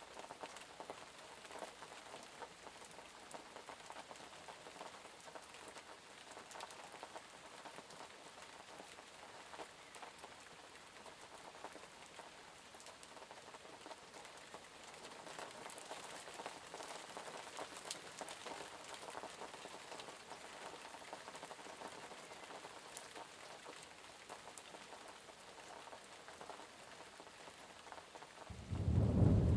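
Steady rain falling and pattering on surfaces, with a dense haze of small drop ticks. About a second before the end, a loud, deep rumble of thunder starts and becomes the loudest sound.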